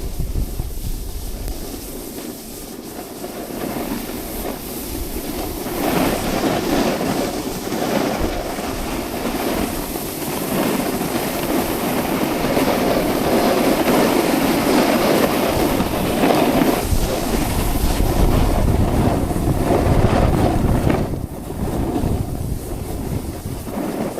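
Snowboard sliding and scraping over snow, a rough rushing scrape that builds, stays strong through the middle and drops off sharply a few seconds before the end, with wind on the microphone.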